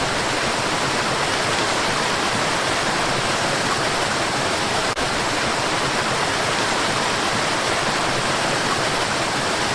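Mountain valley stream rushing steadily over rocks, a dense, continuous water noise that dips out for an instant about halfway through.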